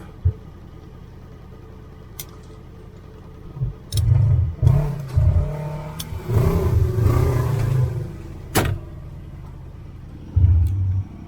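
Side-by-side UTV engine revving in uneven bursts through the middle, with a few sharp knocks.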